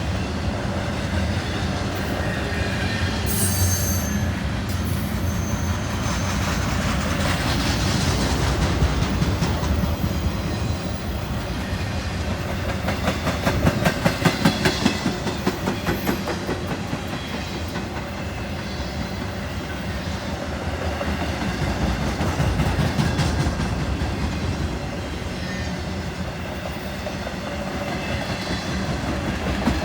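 A long Norfolk Southern intermodal freight train rolling past, its wheels clicking rhythmically over rail joints with a steady rumble and a brief high wheel squeal a few seconds in.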